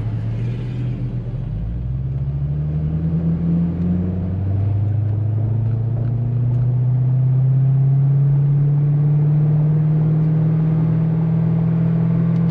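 2008 Chevrolet Corvette C6's V8 engine heard from inside the car, pulling up through the revs for a couple of seconds and then holding a steady, loud cruise.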